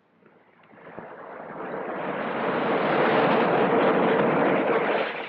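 Rocket engine firing: a loud, even rushing noise that builds over the first few seconds, holds, then falls away near the end.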